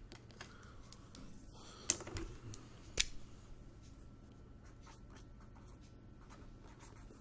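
Faint scattered clicks and taps over quiet room tone, with two sharper clicks about two and three seconds in.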